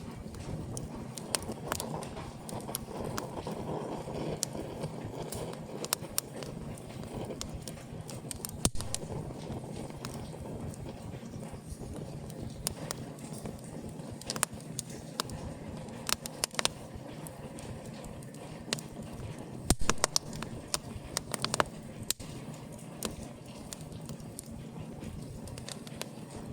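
Wood fire burning in an open fireplace, crackling with irregular sharp pops and snaps over a steady low rush, with a brief cluster of louder pops about twenty seconds in.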